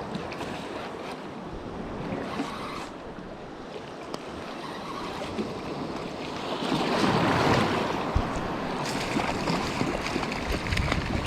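Ocean surf washing around the angler, with wind buffeting the microphone. A wave surges in louder about seven seconds in.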